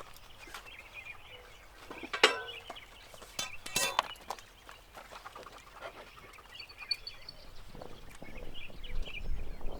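Quiet outdoor sounds: bird calls, with a few scattered knocks, the loudest about two and four seconds in.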